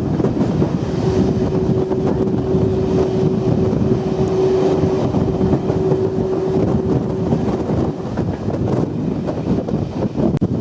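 Heritage train running along the rails with a dense, steady rumble and rattle. A single steady tone is held from about a second in until about seven seconds in.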